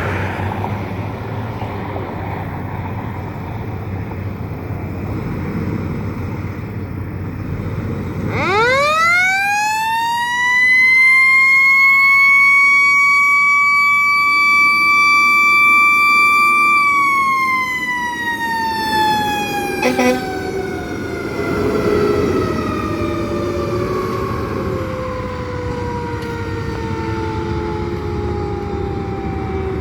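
Fire truck's mechanical siren winding up fast about eight seconds in, holding one steady high pitch, then coasting slowly down in pitch for the rest of the time, over the truck's engine and road noise.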